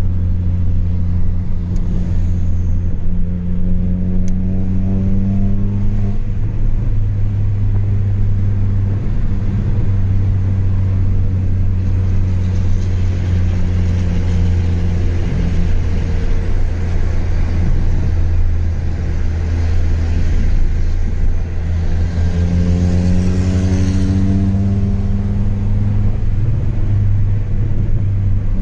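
Chevrolet Astra 2.0 four-cylinder engine through a straight-pipe exhaust with no muffler, droning steadily while driving. The pitch climbs twice as it accelerates, once just after the start and again about three-quarters of the way through.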